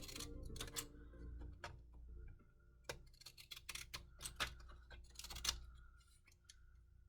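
Scissor blades scraping along the edges of a paper tag to distress them, heard as a run of irregular short scratches and clicks.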